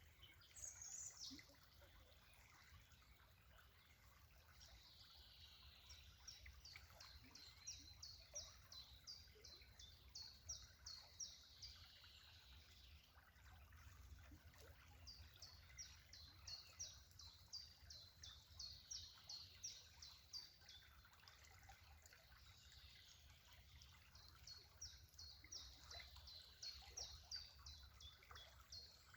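Faint birdsong: long runs of quick, repeated high notes, about four or five a second, that alternate with slower high calls sliding downward, over a steady low background rumble.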